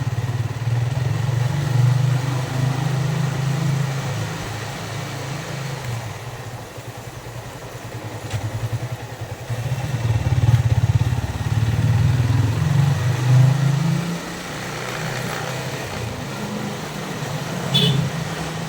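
Yamaha Vixion's single-cylinder engine running under way, twice picking up and easing off again. A brief high chirp near the end.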